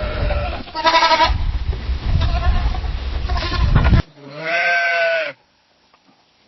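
Sheep bleating: three or four bleats over a low rumbling background, the first the loudest. About four seconds in the sound cuts off suddenly to one clear, wavering bleat lasting about a second, then quiet.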